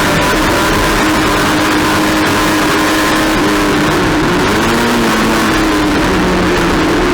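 Race car engine running hard under racing load, with rattle and road noise. Its pitch dips about four seconds in, then climbs back up as it accelerates again.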